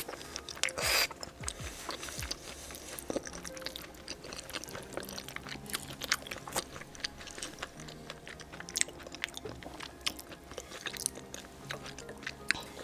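Close-miked mukbang eating sounds: chewing and crunching with many small, irregular mouth clicks, over faint background music.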